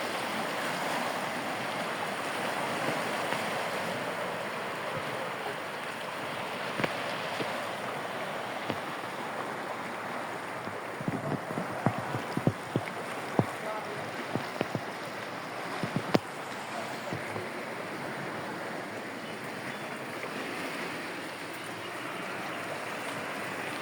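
Steady rushing noise of wind or water, with a run of sharp clicks and taps from about 11 to 16 seconds in.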